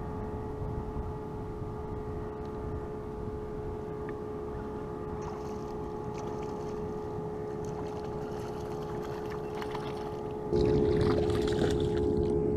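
A boat motor running steadily with an even hum, becoming louder about ten and a half seconds in.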